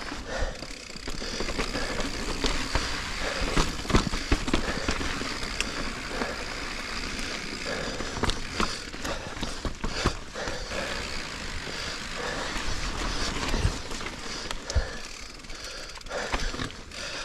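2021 Giant Reign Advanced Pro 29 mountain bike being ridden over slickrock: a steady rush of tyre and wind noise with several sharp knocks and rattles as the bike hits bumps and drops.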